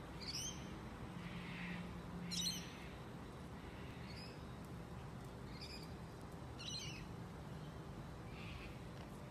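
Short, high bird chirps every second or two, the sharpest ones falling quickly in pitch, over a faint steady outdoor background.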